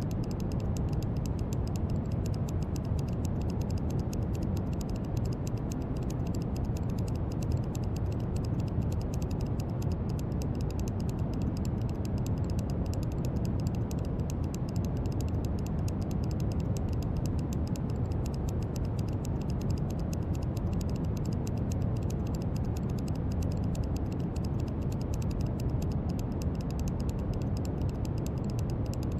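Brown noise: a steady deep hiss-rumble, heaviest in the low end and thinning toward the top, with a fine crackly texture in the highs.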